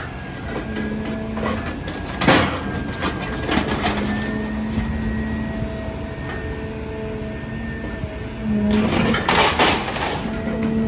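Idromec T 650 CLS scrap metal shear baler working, its hydraulics whining in steady tones that come and go. Scrap metal clanks inside it, with a loud bang about two seconds in and a burst of crunching and clattering near the end.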